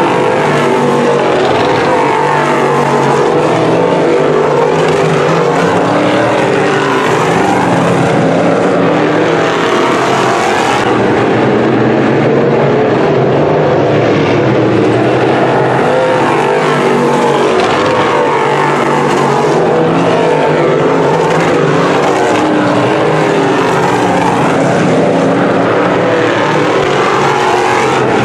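A pack of crate sportsman dirt modifieds racing, their V8 engines overlapping at high revs. The pitches rise and fall together as the cars come off the throttle and accelerate again around the oval.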